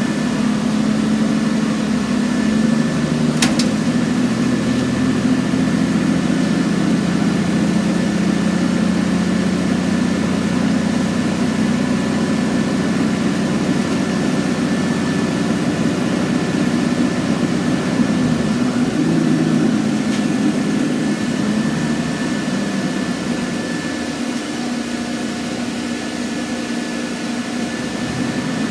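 Scania N113CRB bus engine running steadily, its pitch shifting a few times as it revs and settles, with a faint steady high whine throughout. There is one sharp click about three and a half seconds in.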